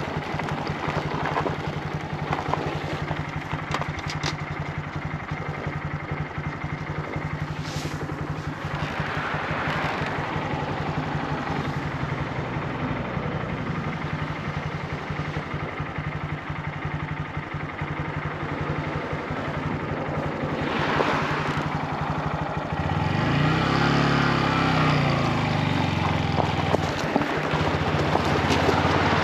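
Motorcycle engine running while riding, over wind and road noise. About two-thirds of the way in the engine gets louder and its pitch rises and falls as it revs.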